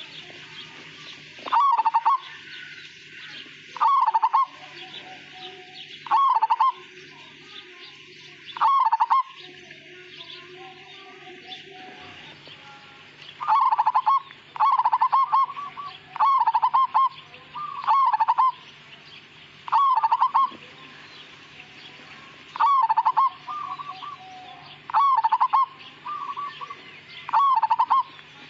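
Zebra dove (perkutut) cooing: short, rapid, trilling coo phrases repeated about every two seconds, with a pause of a few seconds partway through.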